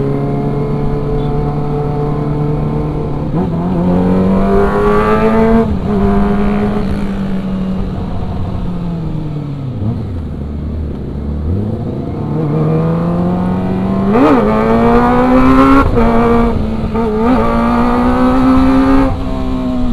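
Kawasaki ZX-25R's 250 cc inline-four engine revving as the bike is ridden. The engine note climbs and drops back in steps as it shifts gears, falls nearly to idle about halfway through as the bike slows, then climbs again under acceleration.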